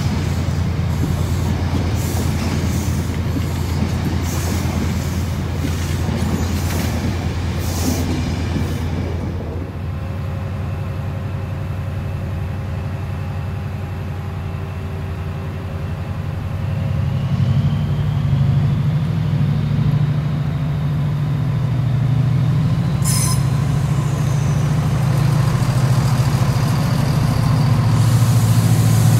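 Train coaches rolling past with repeated clicks over the rail joints for about the first nine seconds. Then the low, steady note of a Chiltern Class 68 diesel locomotive grows louder from about halfway as it draws in along the platform, with a faint rising whine.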